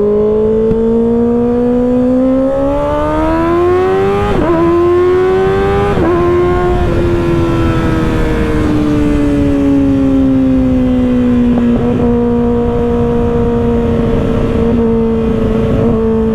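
Kawasaki Ninja ZX-6R 636 inline-four with an M4 exhaust pulling hard, its pitch climbing and dropping at two quick upshifts about four and six seconds in. It then eases off, the note sinking slowly and holding steady at a cruise.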